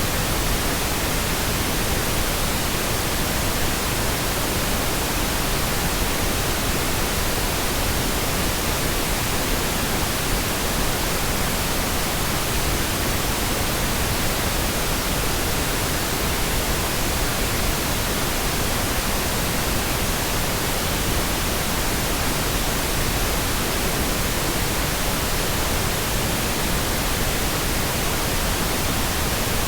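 Steady, uninterrupted pink noise: an even hiss spread across the whole frequency range, with no changes or events.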